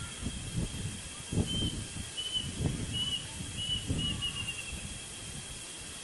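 A bird calling: about six short, high whistled notes on one pitch that come closer together, the last a quick falling run. Under them a steady high hum and irregular low rumbling noise.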